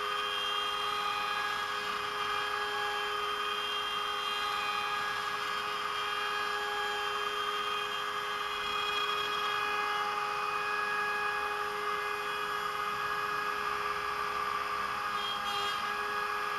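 CNC router spindle running with a steady whine of several tones while its 3.175 mm end mill cuts 18 mm beech plywood.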